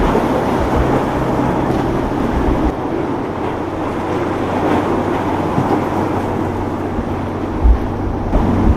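Motorboat engines running over a steady rush of waves and water, with wind buffeting the microphone in a couple of gusts near the end.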